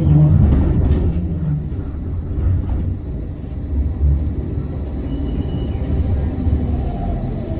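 Amsterdam tram running, heard from aboard: a steady low rumble of the wheels and running gear on the rails. A brief faint high tone about five seconds in, and a whine that starts falling in pitch near the end.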